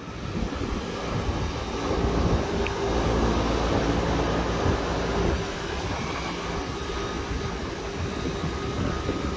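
Newly installed Lennox ML180 80% gas furnace running in heat: a steady rushing noise with a low hum, swelling up in the first couple of seconds and then holding.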